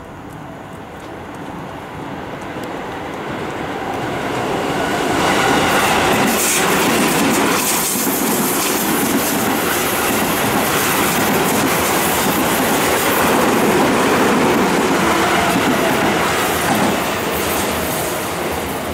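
Seibu 20000 series electric commuter train approaching and passing close by: its running noise grows louder over the first five seconds or so, stays steady and loud while the cars go past, and eases a little near the end.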